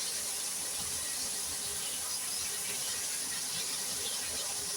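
Flour-coated chicken thighs deep-frying in hot oil, a steady, even sizzle with no break, the thighs freshly turned to cook on their other side.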